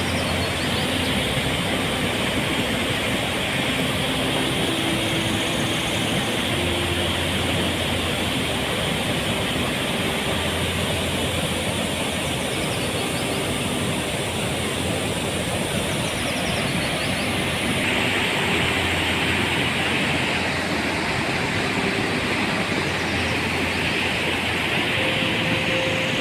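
Steady rush of water flowing at a dam, a continuous loud noise that does not let up.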